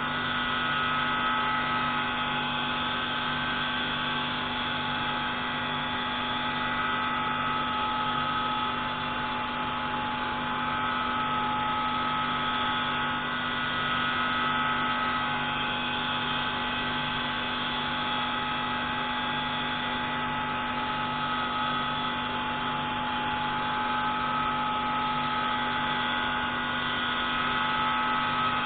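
Pneumatic valve-grinding tool running steadily as it grinds an intake valve from a MaK 601C marine engine: a constant mechanical whine with a steady hum beneath, and a higher tone that fades in and out several times.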